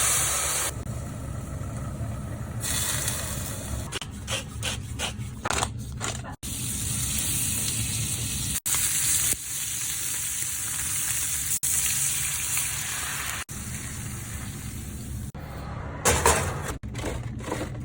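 Chicken risotto sizzling in a hot pan while it is stirred, heard in several short clips with abrupt breaks between them.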